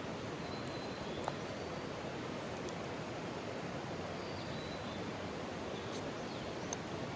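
Mountain stream rushing steadily, with a faint click about a second in and another near the end.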